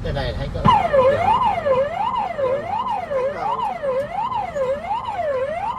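Driving-test car's emergency-stop alarm: an electronic siren that starts just under a second in and sweeps evenly up and down in pitch, about once every 0.7 s. It is the signal for the driver to stop at once and switch on the hazard lights.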